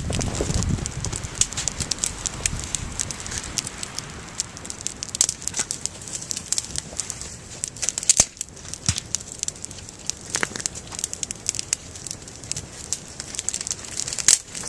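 Small wood fire crackling, with sharp pops scattered throughout and a few louder snaps. A low rumble, likely wind, comes in the first second.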